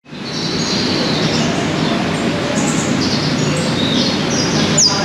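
Many birds chirping over a steady rushing background noise. Two sharp whistles sweep downward in pitch near the end.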